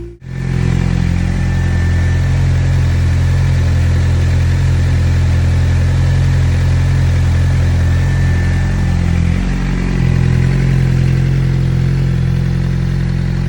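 Suzuki GSX-R 600 sportbike's inline-four engine idling steadily while it warms up, its note shifting slightly about nine seconds in.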